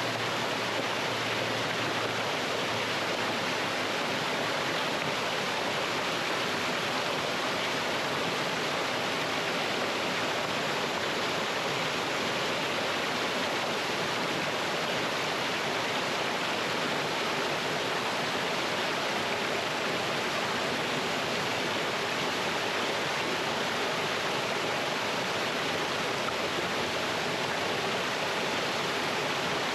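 Mountain stream water flowing and splashing over rocks in a small cascade, a steady, unbroken rushing.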